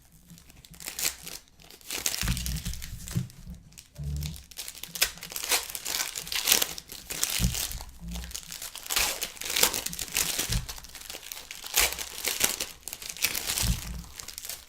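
Trading-card pack wrappers crinkling and cards being handled, in irregular sudden rustles throughout, with a few short low thuds.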